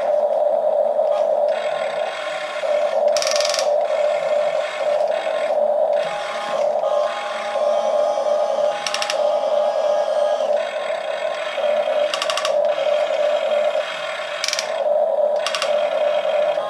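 Radio-controlled excavators' electric motors and gears whirring steadily as they dig rubble. Short bursts of rapid clicking, like a ratchet, come every few seconds.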